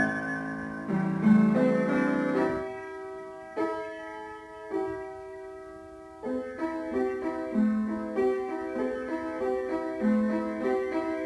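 Piano music: held chords at first, softening to a quiet passage, then a steady pattern of repeated notes from about six seconds in.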